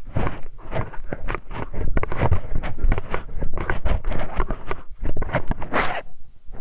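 Hex wrench scraping, rubbing and clicking inside a binaural microphone's ear for ASMR ear cleaning: a dense, irregular run of close-up scratches and small knocks.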